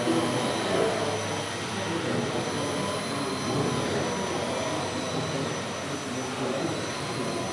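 Steady background din of a busy exhibition hall: a whooshing noise with indistinct murmur of voices mixed in, and no single event standing out.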